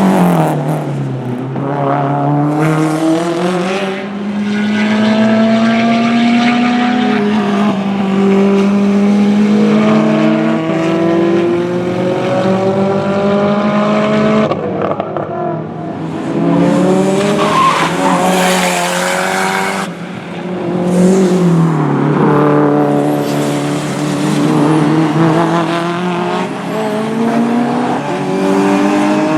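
Tuned time-attack race cars on track. The engine note climbs again and again through the gears, dropping back at each shift, with a few stretches of hiss between.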